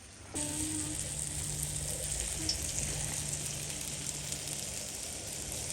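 Puff puff dough balls deep-frying in hot oil: a steady sizzle that comes in suddenly about half a second in.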